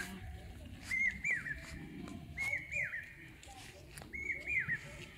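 A bird calling: a whistled phrase of two quick rising-and-falling notes, repeated three times about a second and a half apart.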